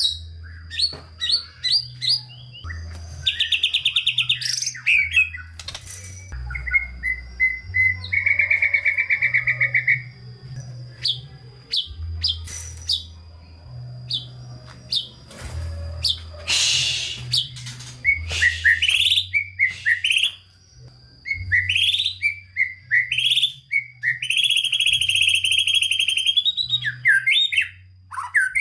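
White-rumped shama (murai batu) singing a long, varied song packed with phrases: rapid whistles and chirps broken by several fast buzzing trills, the longest near the end.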